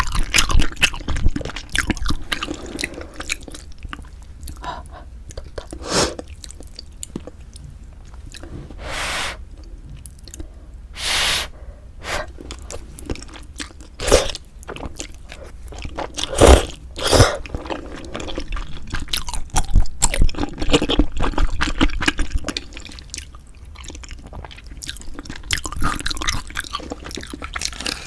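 Close-miked eating of pork bone hangover soup with glass noodles: wet chewing with many short clicks and crackles, and now and then a longer sound of about half a second.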